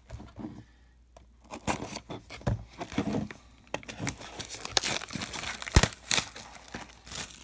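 Plastic wrapping on a box of trading cards being torn and crinkled open by hand, an irregular run of rustles and crackles with one sharp snap near the end.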